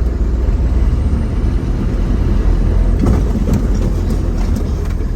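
Motor vehicle driving, a steady low engine and road rumble, with a few brief rattles or knocks about three to four seconds in.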